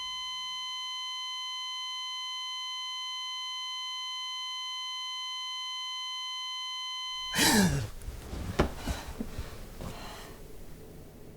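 A steady electronic tone, a pure beep held at one pitch with overtones, cuts off sharply about seven seconds in. It gives way to a short falling sweep, a sharp click about a second later and some rustling noise.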